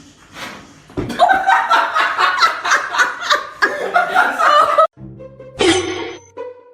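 People laughing in quick, pulsing bursts for about four seconds, over background music.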